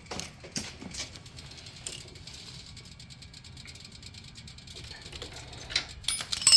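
Metal hardware and tools being handled during a motorcycle floorboard install: scattered light clicks and rattles, a quieter stretch, then a quick run of sharper clicks near the end, the loudest at the very end.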